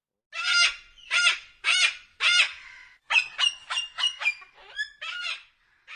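A goose honking: four loud, harsh honks about half a second apart, then a quicker run of about seven shorter honks.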